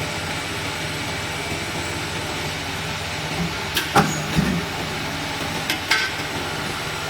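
Refrigerator mullion roll forming machine running with a steady hum, broken by a few sharp knocks around the middle.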